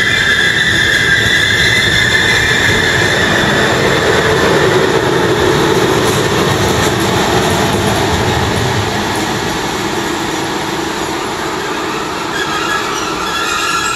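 DB class 111 electric locomotive and its double-deck regional coaches rolling past at low speed. High wheel squeal sounds at the start and again near the end, and the sound is loudest around the middle as the locomotive goes by.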